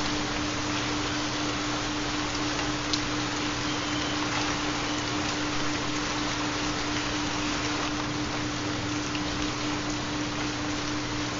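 Steady rain falling, with faint scattered drop ticks, under a constant low hum tone, the carrier of a theta binaural beat.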